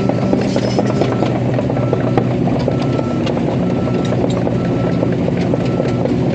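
Excavator's diesel engine running steadily while its travel alarm beeps about once a second, with scattered metallic clanks.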